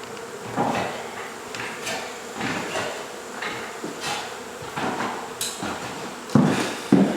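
Honey bees buzzing from a colony being cut out of a wall, under a string of irregular knocks and thumps, the two loudest near the end.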